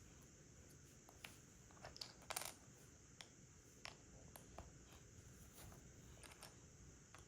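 Faint, scattered clicks of plastic Lego pieces being handled and pressed together, with a short louder rattle of pieces about two seconds in.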